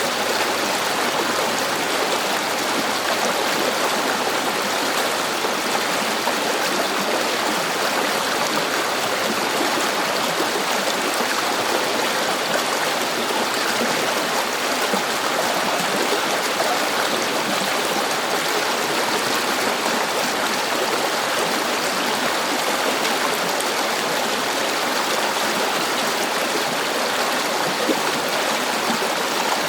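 River water flowing over stones: a steady, even rush of running water with small babbling and trickling detail.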